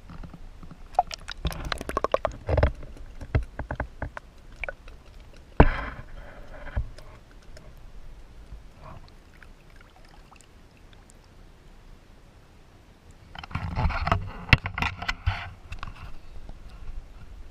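Irregular knocks and clatter of canoe paddling: the paddle and gear bumping against the hull, with one sharp thump about five and a half seconds in and a busier run of knocking near the end.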